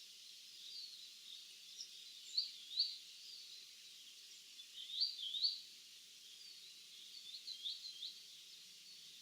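Small songbirds calling in a field: short, high, quick chirps in pairs and little clusters, the loudest pairs about two and a half and five seconds in. Under them runs a steady, faint, high-pitched background chorus.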